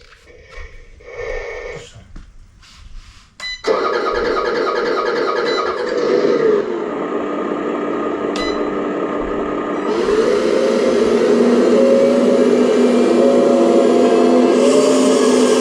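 Radio-controlled model excavator running, starting abruptly a few seconds in: a steady mechanical whine whose pitch dips and rises as it works.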